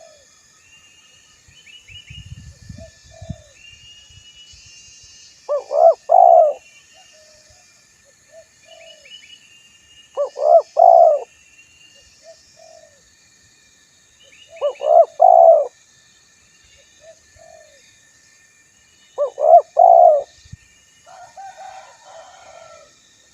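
Spotted dove cooing: a loud coo phrase of three or four notes, repeated four times about every four and a half seconds, with softer coos between. Small birds chirp at a higher pitch behind it.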